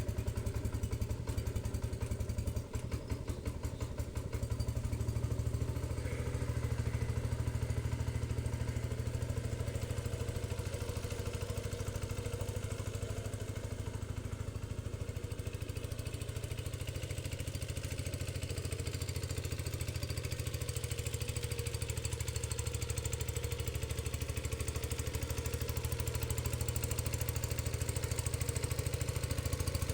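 Cub Cadet 107's 10 hp Kohler K241A single-cylinder engine running steadily just after a cold start, with a brief dip and unevenness about three seconds in. The carburetor is out of adjustment.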